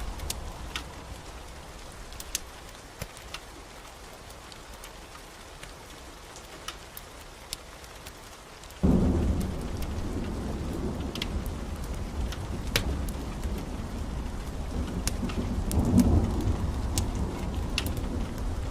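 Recorded rain with thunder. A thunderclap breaks in suddenly about nine seconds in and rumbles on, swelling again near the end. Scattered sharp crackles run throughout.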